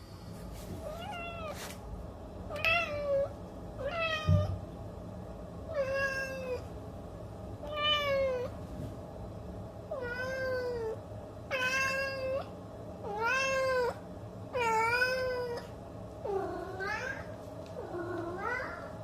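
A cat meowing over and over, about eleven meows spaced a second or two apart; the last two come out lower.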